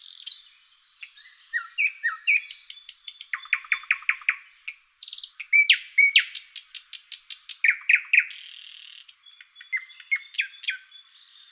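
Birdsong: a long, varied string of chirps, fast rattling series of short notes and short down-slurred whistles, with no pause.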